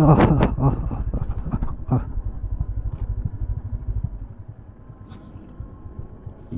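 Honda CB350 H'ness single-cylinder motorcycle engine running steadily while riding, a low pulsing rumble that drops in level about four seconds in.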